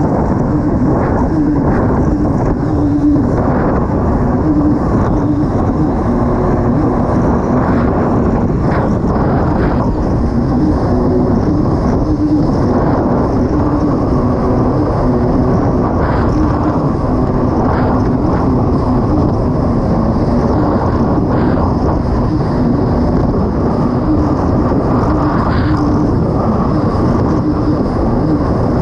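Kawasaki STX 160 jet ski running flat out at steady speed, its engine note wavering slightly over a constant rushing noise, with a few brief knocks scattered through.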